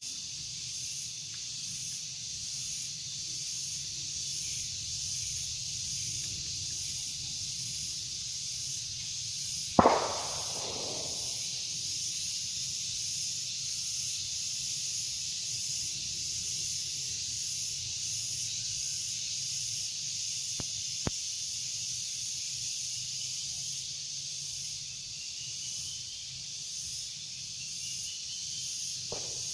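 Steady high-pitched insect chorus with a faint even pulsing, and one sharp bang about ten seconds in.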